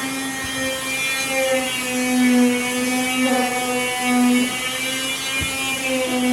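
An electric power tool's motor running steadily with a pitched hum that swells and dips slightly in loudness, with a faint knock or two.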